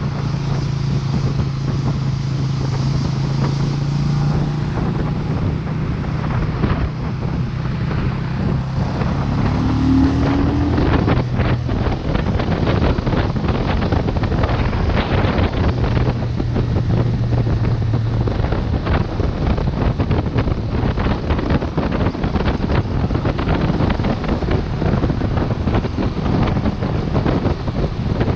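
Vento Lucky 7 motorcycle engine running on the move, its pitch shifting with speed, with a short rising rev about ten seconds in. Heavy wind noise buffets the microphone.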